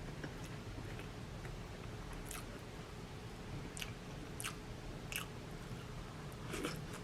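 Close-up mouth sounds of someone eating: chewing with a few sharp wet clicks and smacks about a second apart and a short flurry near the end, over a faint steady low hum.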